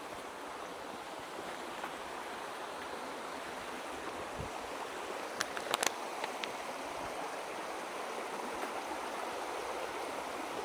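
Creek water running high over rocks in a steady rush, swollen after rain. A few sharp clicks sound a little past the middle.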